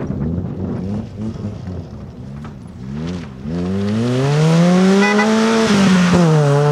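Rally car engine wavering in revs on and off the throttle, then accelerating hard from about three and a half seconds in, rising in pitch and getting louder. Near the end the revs dip briefly, as at a gear change, then hold high.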